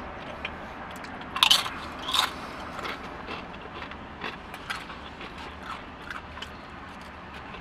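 Crisp tortilla chip bitten and crunched between the teeth, with two loud crunches about a second and a half and two seconds in. Softer chewing clicks and a fork scraping food from a bowl follow.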